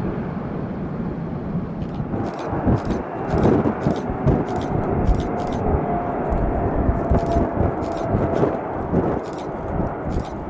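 Jet airliner engines rumbling steadily as a plane passes, with gusty low buffeting and a run of short sharp clicks from about two seconds in.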